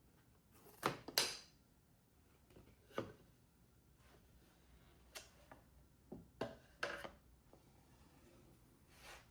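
Scattered light knocks and clicks of hard objects being handled, the loudest a close pair about a second in, with a handful more later on.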